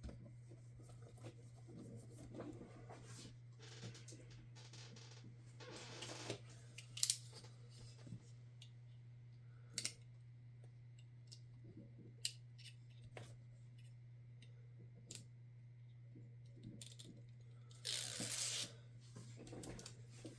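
Small clicks, taps and scrapes of plastic laptop parts and tools being handled during disassembly, with a sharp click about seven seconds in and a short rasp near the end, over a steady low hum.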